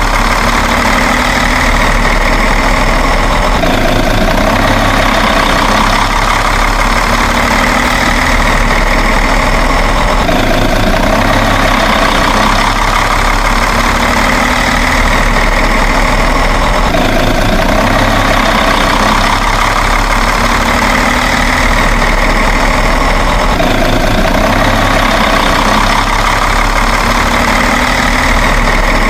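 Steady truck engine idling sound at an even level. The same stretch repeats about every seven seconds, like a looped track.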